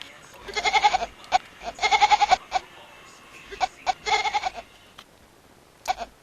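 Kitten meowing with a wavering, bleating cry that sounds like a baby goat: three drawn-out quavering meows, with a couple of short ones between them.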